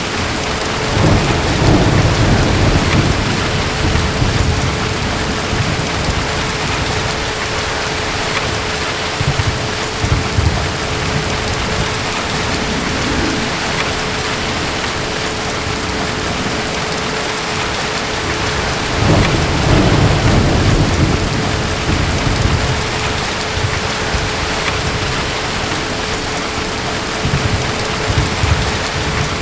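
Steady heavy rain with distant thunder rumbling low, in swells about a second in, near ten seconds, and again near twenty seconds, with a last short one near the end.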